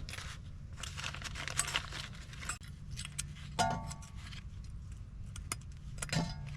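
Small metal brake hardware clinking and scraping as it is fitted to a disc-brake caliper bracket: irregular light clicks and scrapes, with a short metallic ring about three and a half seconds in, over a steady low hum.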